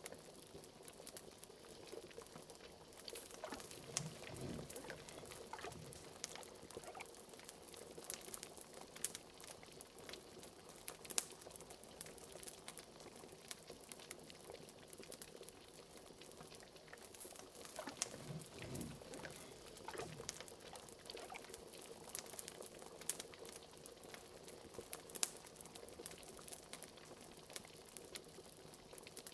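Liquid bubbling in a cauldron at a steady boil, with larger low gurgles a few seconds in and again past the middle, over steady fire crackle: scattered sharp crackling clicks.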